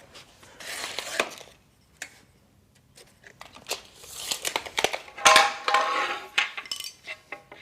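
Score-and-snap knife drawn along the face of a fibre cement weatherboard, scoring it in several scraping strokes with a few clicks between them. The longest stroke, about four to six seconds in, carries a short squeal.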